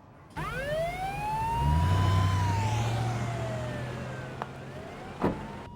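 Police car siren wailing: one slow rise and fall in pitch, starting to rise again near the end, over a low engine hum.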